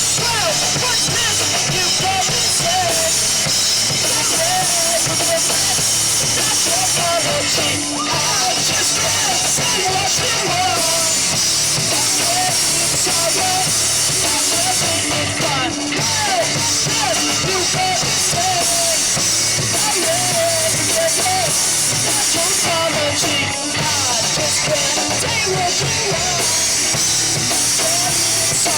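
Live rock band playing loud, with a full drum kit pounding under amplified guitars and a wavering melody line over the top.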